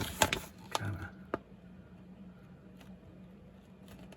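A few sharp clicks and rustles of plastic model-kit sprues and a plastic bag being handled in the first second and a half, then only a faint steady low hum.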